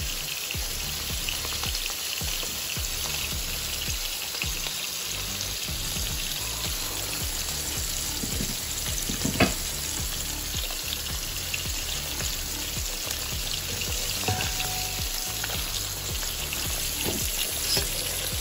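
Seasoned salmon pieces sizzling steadily in hot coconut oil in a stainless steel pan, with one sharp knock about halfway through.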